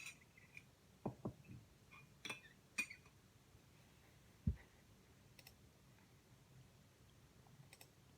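Scattered small clicks and soft knocks of objects being handled in a quiet small room, with one louder low thud about four and a half seconds in.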